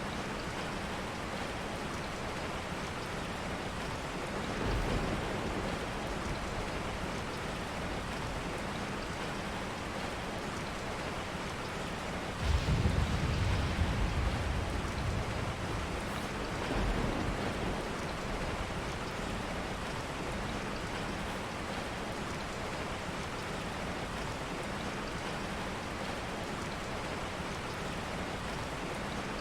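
Steady rain, with low rumbles of thunder: a soft one about five seconds in, a louder one that starts suddenly about twelve seconds in and fades over a couple of seconds, and a smaller one a few seconds later.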